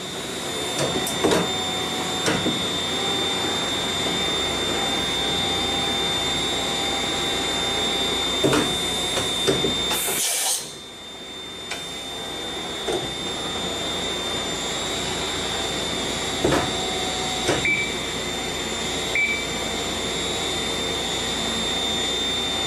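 5-axis CNC machining centre running, a steady machine noise with a constant high whine, several sharp knocks, and a short loud hiss about ten seconds in.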